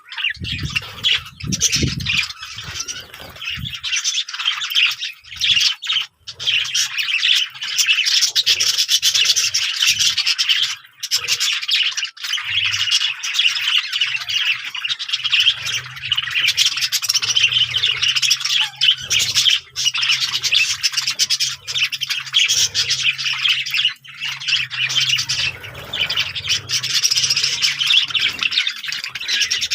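Many birds chirping and squawking in a dense, continuous high-pitched chatter.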